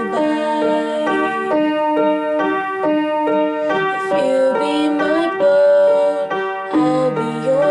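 Piano music: held notes and chords played on a keyboard, with no singing.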